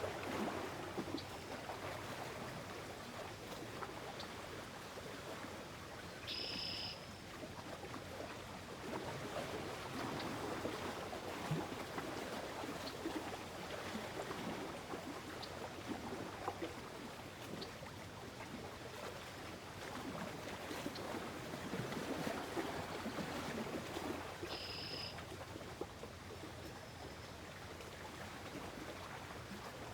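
Gentle lake-shore water ambience: small waves lapping and trickling in an uneven, steady wash. A short high chirp sounds twice, about 18 seconds apart.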